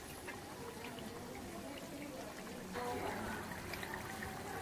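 Stuffed round gourds (tinda) frying in ghee: the fat bubbling with a steady patter of small crackles, a little louder from about three seconds in.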